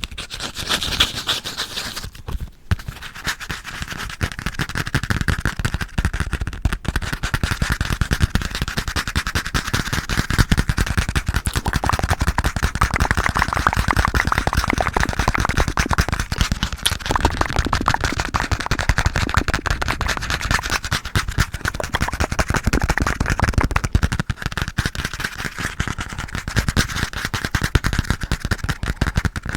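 Fast, aggressive tapping close to a very sensitive microphone: a dense, unbroken stream of rapid clicks, dipping briefly about two seconds in.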